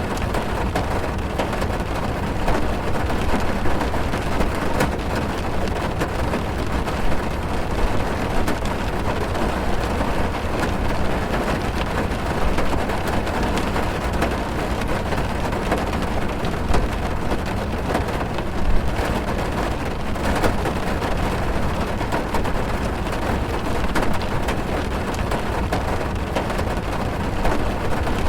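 Heavy rain drumming on a car's roof and windows, heard from inside the car: a steady dense patter with a low rumble underneath.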